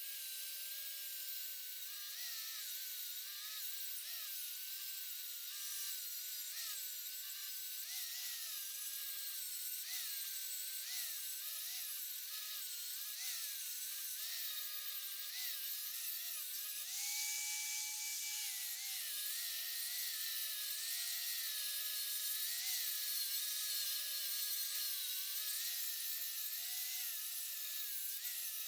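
High-speed grinder working on metal, its motor whine sagging again and again as it bites, with a constant hiss of grinding. About seventeen seconds in, it runs free at a higher, steady pitch for a couple of seconds before bearing down again.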